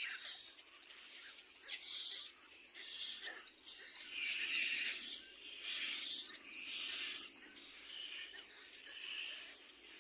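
Little black cormorant nestlings giving raspy, hissing calls, about one a second.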